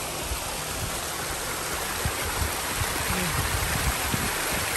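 Water running steadily down the mountainside beside the path, a constant rushing hiss. From about two seconds in, low thumps and short rumbles come through over it.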